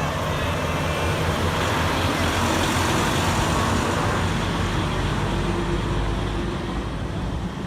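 Truck engine running steadily under road traffic noise, with a rushing swell a couple of seconds in, as of a vehicle driving past.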